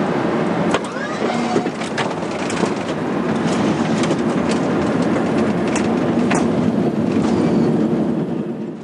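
Boeing 747-400 cockpit noise during the landing rollout: a steady rumble of the airliner rolling down the runway, with many sharp clicks and rattles from the flight deck. The sound cuts off suddenly near the end.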